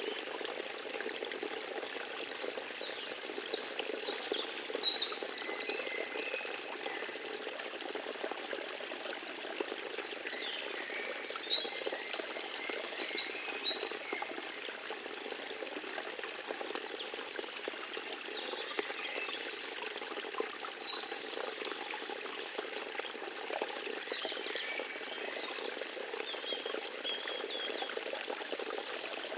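Stream water flowing steadily, while a small songbird sings three loud phrases of fast, high trills, about three seconds in, about ten seconds in and around twenty seconds in; the middle phrase is the longest.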